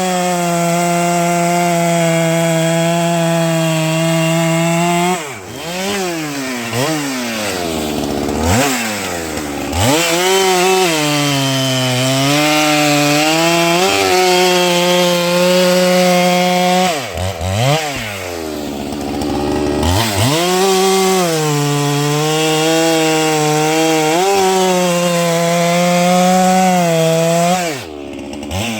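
Holzfforma 395xp two-stroke chainsaw cutting through wood at full throttle in three long cuts. Between the cuts, a little over 5 s in and again around 17 s, the engine drops back toward idle and revs up again.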